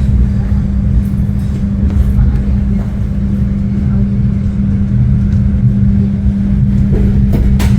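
Passenger train running, heard from inside: a loud, steady rumble with a constant low hum, and a sharp click near the end.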